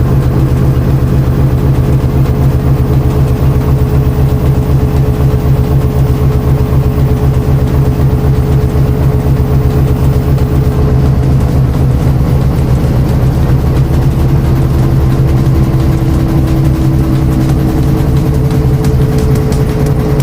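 Washing machine running, a loud steady low motor hum and rumble that goes on without a break.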